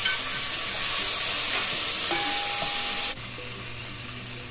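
Green seasoning sizzling in hot oil in a pan as it is stirred, a loud steady hiss. It drops abruptly to a fainter hiss about three seconds in.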